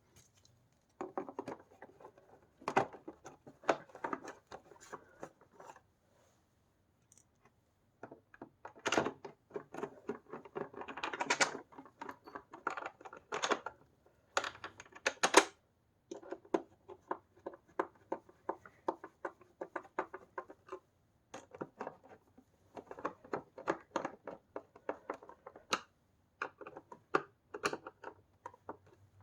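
Handling noises from reassembling an upright vacuum cleaner's base: a long run of small plastic clicks, knocks and scrapes, with gaps between them.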